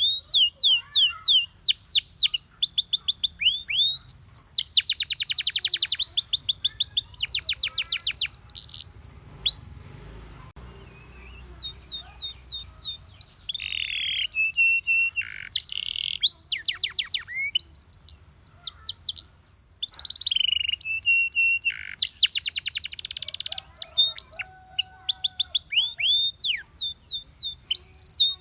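Domestic canary singing: long, fast trills of rapidly repeated high down-sweeping notes, with a break of a few seconds about a third of the way through and a few held whistled notes among the trills later on.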